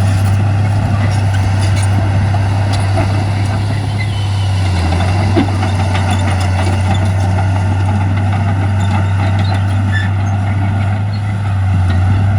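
Heavy diesel earthmoving machinery running steadily: a deep, constant engine drone with scattered light clicks and a short knock about five seconds in.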